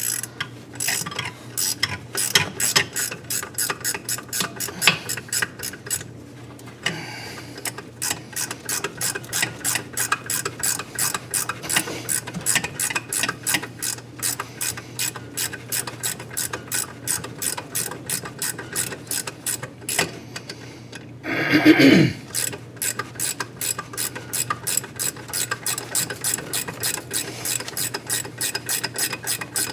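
Ratchet wrench clicking in rapid, even strokes as it turns a thread chaser through a damaged exhaust-side bolt hole on a KA24DE engine, cleaning up the threads. It pauses briefly twice, and a louder scrape comes a little over twenty seconds in.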